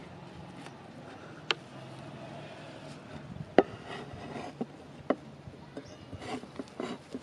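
Scattered sharp knocks of hand work on the hasua, three louder single strikes a second or two apart, then a run of lighter taps and rubbing near the end.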